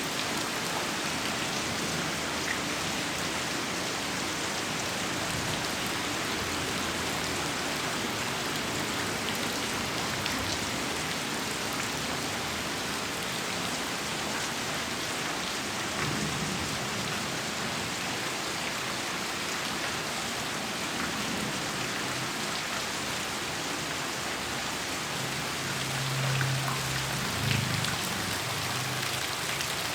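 Heavy rain falling steadily. A low rumble of distant thunder comes in near the end.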